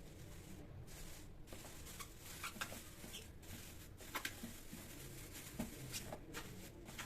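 Scattered light clicks and small knocks of kitchen items being handled, over a faint steady hum.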